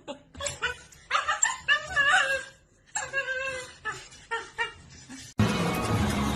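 A dog whining in two long spells of wavering, pitched cries, then a few short sounds. Music cuts in abruptly about five seconds in.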